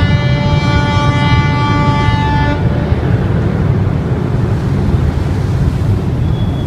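A ship's horn sounding one long, steady blast that cuts off about two and a half seconds in, over a constant low rumbling noise.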